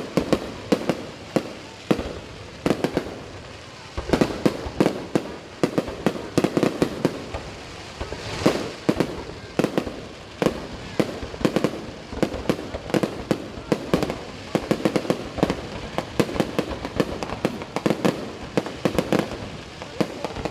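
Aerial fireworks display: a rapid, irregular barrage of shell bursts, often several bangs a second, with a brief lull about two seconds in before the barrage resumes.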